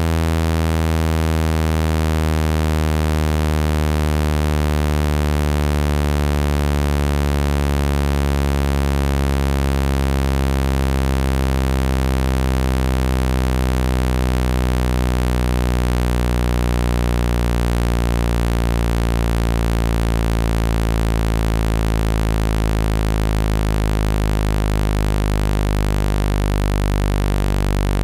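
Continuous synthetic low buzzing tone with many overtones, a speaker water-ejection tone played to vibrate water out of a phone speaker. It holds a steady level, with the upper overtones drifting slowly in pitch.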